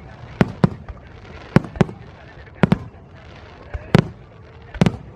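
Fireworks shells bursting: about ten sharp bangs, mostly in close pairs, coming roughly one pair a second.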